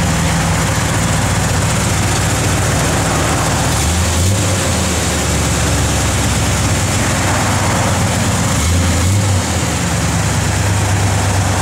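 Small-block V8 of a 1973 Corvette, the L82 350, idling steadily through headers and a Flowmaster dual exhaust. Its low note shifts about four seconds in, and again briefly around nine seconds.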